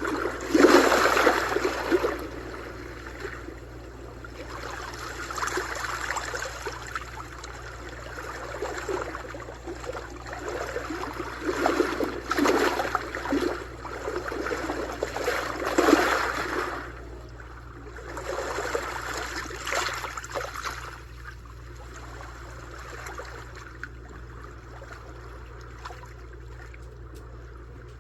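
Sea waves washing onto the shore, each one swelling up and falling back every few seconds. The strongest surges come about a second in and again past the halfway point, and the water is calmer near the end.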